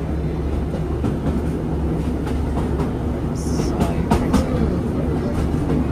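Inside a diesel passenger train running along: a steady engine drone and wheel-on-rail rumble, with a brief hiss about three and a half seconds in.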